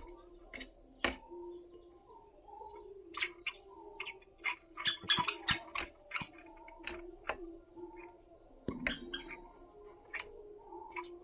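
Woodpecker pecking on a glass window: sharp, irregular taps that come in short runs, with a quick flurry about five seconds in. Faint bird chirping runs underneath.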